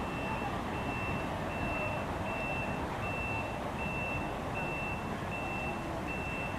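Low rumble of a departing commuter train, with a high electronic beep repeating evenly, about four times every three seconds.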